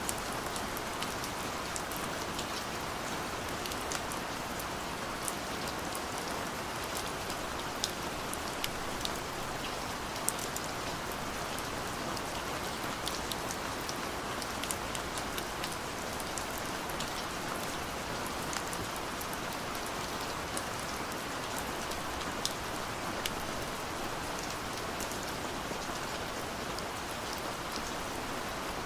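Steady rain falling on a surface, an even hiss with many small separate drop ticks scattered through it.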